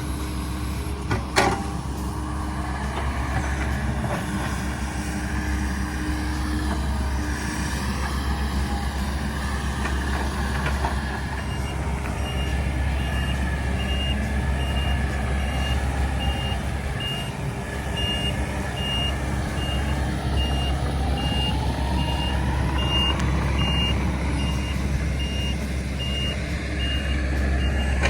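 Heavy diesel equipment engine running steadily, with a sharp knock about a second in. From about a third of the way in, a back-up alarm beeps about once a second, and the engine note rises for a few seconds about two-thirds through.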